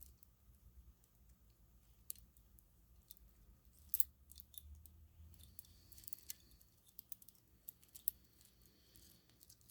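A string of white-cord mini lights with clear bulbs being handled: scattered small clicks and taps of the bulbs and cord knocking together, the sharpest about four seconds in and another near eight seconds, with a short rustle in between.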